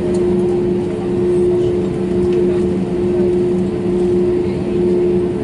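Steady drone inside the cabin of an Airbus A320neo as it taxis, its engines at idle: an unchanging hum with a low pitched tone over a smooth rush of air.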